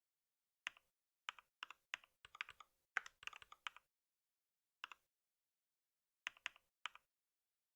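Typing on a computer keyboard: single keystrokes and short, irregular runs of keys, with pauses between, the densest run about three seconds in.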